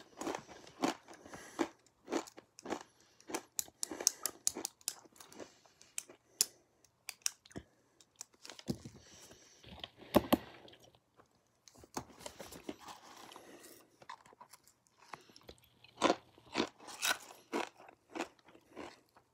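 A person chewing crunchy food with hummus right at the microphone: crisp crunches and mouth sounds in irregular bouts, with short pauses between mouthfuls.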